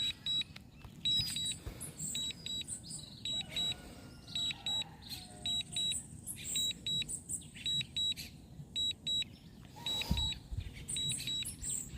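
Drone remote controller giving short, high-pitched alert beeps, repeated in quick irregular clusters. There is a brief knock about ten seconds in.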